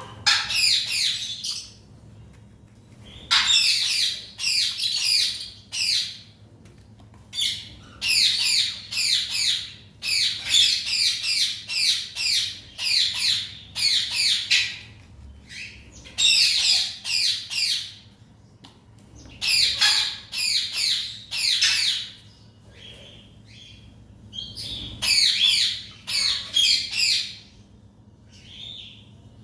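Parrots squawking: harsh, screechy calls of about a second each, repeated in clusters with short pauses between.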